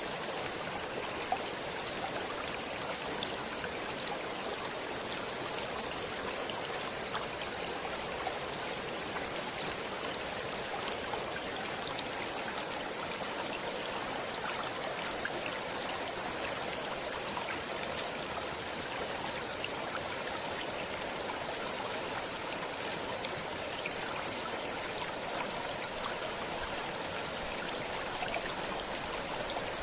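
Stream water running and babbling steadily over rocks, with small splashes and droplets scattered through it.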